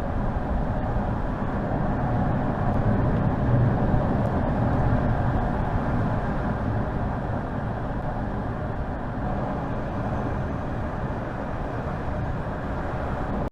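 Car driving: a steady rush of engine and road noise that swells slightly a few seconds in, then cuts off suddenly at the end.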